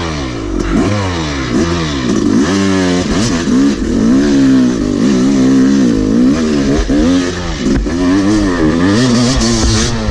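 Yamaha YZ250 two-stroke dirt bike engine revving up and down again and again, the throttle opened and closed in quick bursts.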